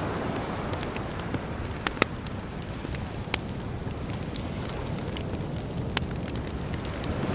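Campfire crackling, with sharp pops at irregular intervals, the loudest about two seconds in and about six seconds in. Beneath it is a steady low wash of sea waves, which swells again near the end.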